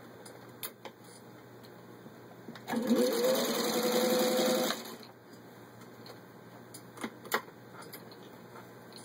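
1953 Singer 15-91 sewing machine, with its gear-driven motor, stitching through a 1/8-inch-thick leather belt. About three seconds in, the motor spins up with a quickly rising whine and runs at speed with fast, even needle strokes for about two seconds, then stops. A few sharp clicks come before and after the run.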